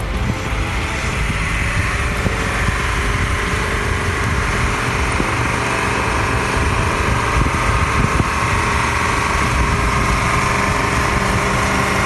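Vehicle engine running steadily, getting slightly louder over the first few seconds.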